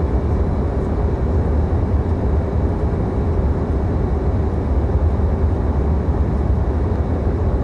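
Passenger airliner cabin in cruising flight: a steady, even rumble of engine and airflow noise, heaviest in the low end, with a faint steady hum over it.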